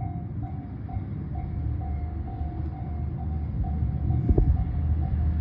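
Train running: a low, dense rumble that grows slowly louder, with a short clank about four seconds in. Over it is a thin repeating tone, about two pulses a second.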